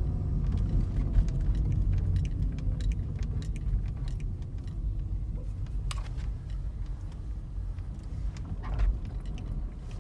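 A 2004 Toyota Prius rolling and slowing down: a low road rumble fades gradually while a faint whine falls in pitch over the first few seconds. There is a sharp click about six seconds in and another near the end.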